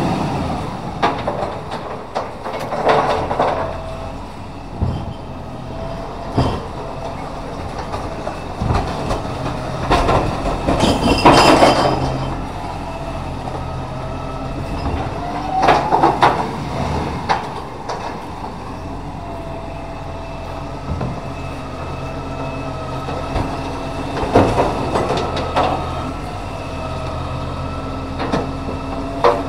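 Side-loader recycling truck working the bins: the engine runs steadily under a whining hydraulic pump, with repeated metal clanks from the automated arm and a loud crash about eleven seconds in.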